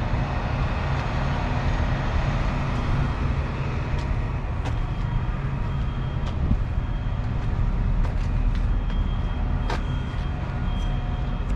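The Kenworth W900 truck's diesel engine running steadily with a low hum. Several sharp clicks and ticks come through over the top.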